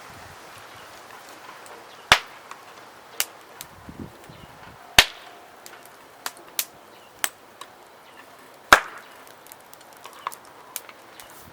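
Wood fire crackling: sharp pops at uneven intervals, the loudest about two, five and nine seconds in, over a faint steady hiss.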